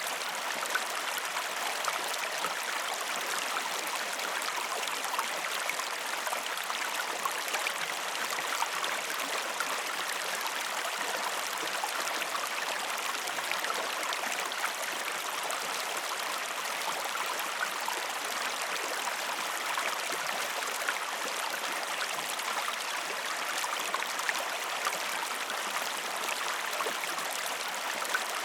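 Steady rushing and trickling of a river flowing over stones, a continuous even hiss dotted with small splashes and bubbling, without music.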